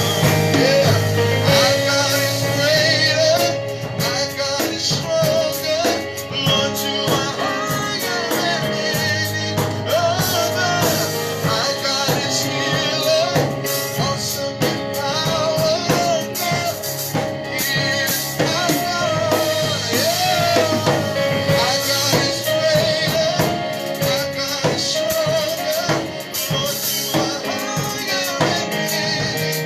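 Worship band music with a drum kit and singing, a continuous praise song played live.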